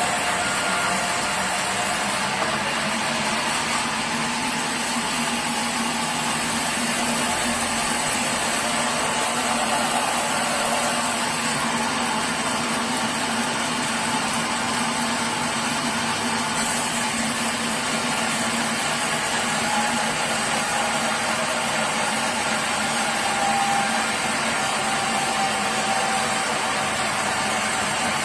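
Sawmill machinery running steadily with a constant mechanical drone and hum, without a break or change.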